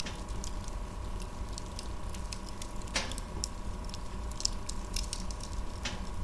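Wood fire crackling, with irregular sharp pops over a low rumble; one louder pop about halfway through.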